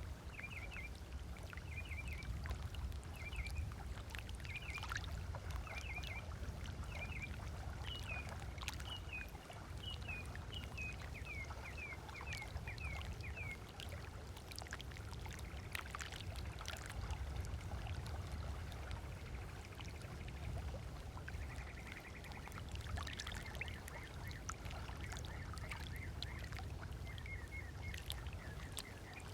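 Small waves lapping on a sandy shore with soft clicks and splashes, over a low steady rumble. A bird repeats short chirping calls in quick groups through the first half and again near the end.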